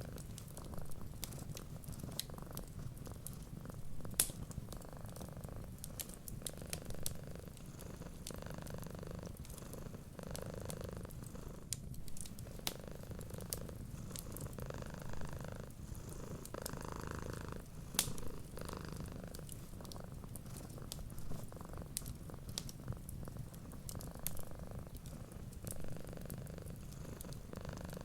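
Domestic cat purring steadily in a low rumble, with the sharp, irregular pops and crackles of a wood fire over it.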